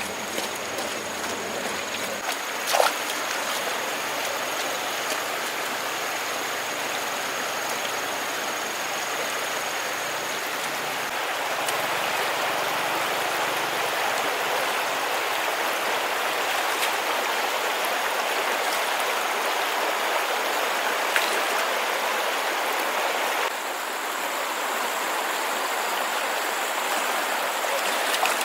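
Steady rush of flowing water, like a stream running over stones, with a single sharp knock about three seconds in.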